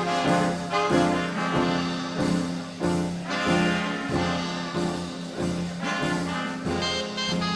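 Big band playing a 1930s-style jazz number, with trumpets, trombones and saxophones over a steady beat.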